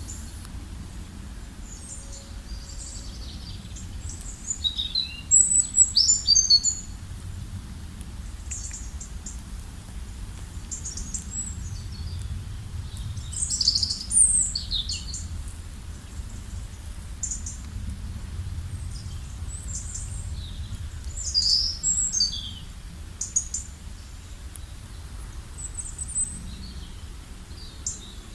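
Small birds chirping in short, high calls, several sweeping downward, coming in clusters every few seconds with the loudest bunches about a quarter, half and three quarters of the way through. A steady low rumble runs underneath.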